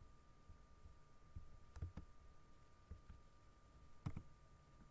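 Near silence: faint room tone with a few brief, faint clicks, two close together about two seconds in and one more near the end.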